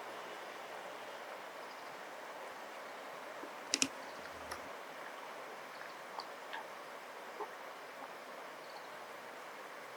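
Steady rush of flowing river water, with a sharp double click a little under four seconds in and a few fainter ticks after it.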